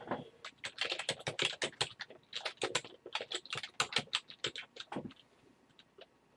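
Typing on a computer keyboard: a quick run of keystrokes for about five seconds, then stopping with only a faint tap or two.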